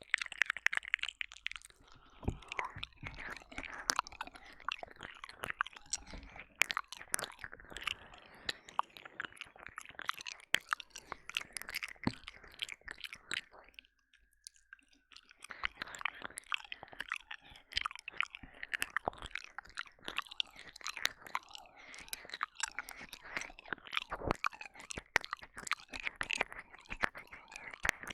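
Close ASMR mouth sounds into a binaural ear microphone: wet licking, smacking and sucking, in a dense run of clicks that pauses briefly about halfway through.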